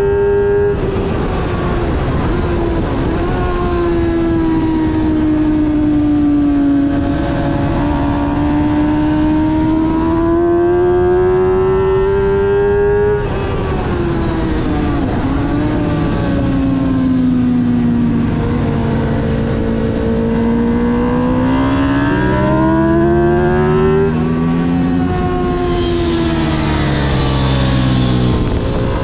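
Onboard sound of a motorcycle engine at high revs around a race track. Its note climbs slowly in long pulls, breaks off sharply about halfway through and again near the end, then climbs once more.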